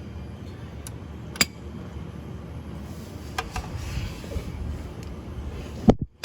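A steady low rumble with a few sharp metallic clicks of a wrench and socket on an oil pan drain plug, and a louder knock near the end as the plug is broken loose.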